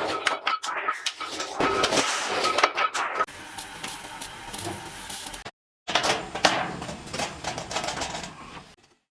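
Workshop clatter from sheet-metal work: rapid, irregular metal clicks and knocks, with a steady high whine over the first three seconds. The sound cuts out for a moment just past the middle, then the clatter resumes.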